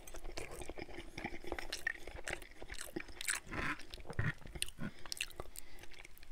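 Close-miked chewing of a mouthful of cheesy scrambled eggs: soft, wet mouth sounds with many small clicks and smacks.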